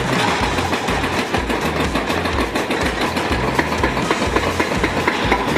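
Excavator-mounted hydraulic breaker hammering rock in rapid, continuous blows, over the excavator's running engine.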